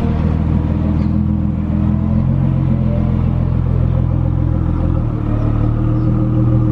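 A car engine running steadily at low revs, with a brief dip in level about five seconds in.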